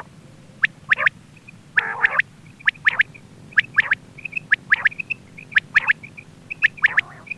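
Quail calling repeatedly, as used to lure quail for hunting: quick sharp whistled notes in pairs and triplets, mixed with a few harsher rasping calls and soft high chips in between.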